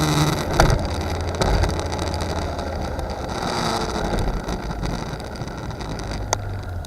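Road and engine noise of a moving car, with a sharp knock about half a second in, another about a second later, and a short click near the end.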